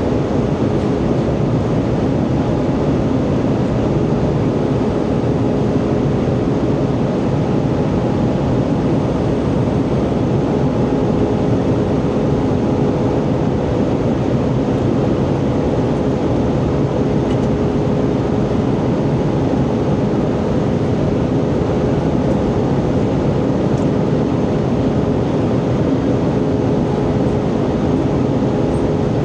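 Steady cabin noise of an Airbus A320 in flight: an even rush of engine and airflow noise with a faint steady hum in it.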